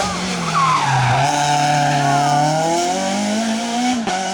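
Rally car engine running hard while the car slides around a hairpin, with tyres squealing and skidding. The engine pitch dips about a second in and steps up about three seconds in.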